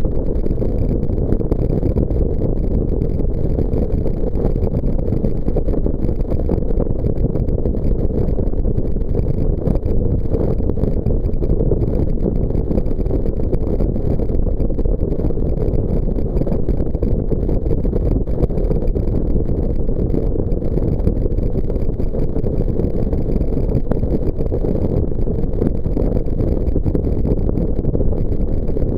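Jet boat under way: a loud, steady rumble of engine, water and wind that holds unchanged throughout.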